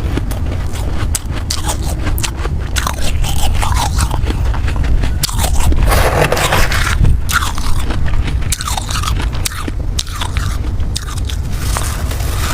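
Ice being bitten and chewed close to the microphone: crisp, crunchy cracks again and again, with a dense stretch of crunching about six seconds in.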